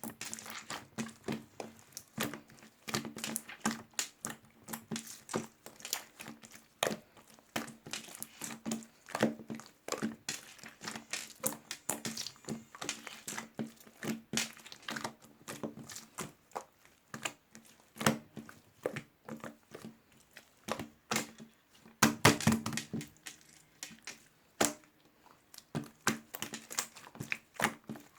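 Close-up handling sounds: crinkling, crackling and light tapping in a quick, irregular stream of short clicks, busiest about two thirds of the way in, over a faint steady hum.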